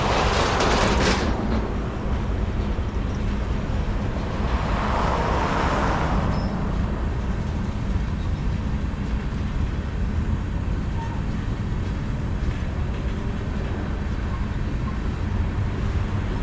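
Freight train cars rolling slowly past, a steady low rumble, with two swells of louder noise, one at the start and one about five seconds in.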